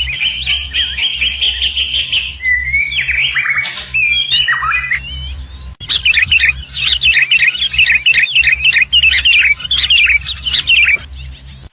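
Birds chirping and calling: varied whistled calls at first, then from about six seconds in a fast run of repeated chirps that stops shortly before the end. A steady low hum runs underneath.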